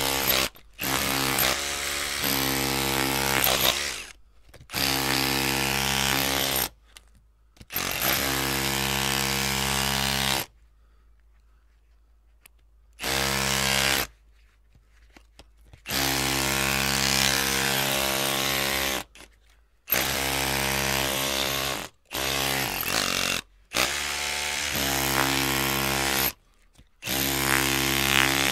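Electric drill running in repeated bursts of one to four seconds, a steady motor whine over a hiss, each run starting and stopping abruptly with short silent pauses between them.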